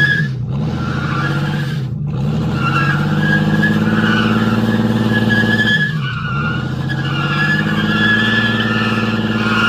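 Truck engines held at high revs under load in a tug-of-war pull, wheels spinning with tire squeal over the top. The revs dip briefly about half a second in, around two seconds and again around six seconds, then climb back.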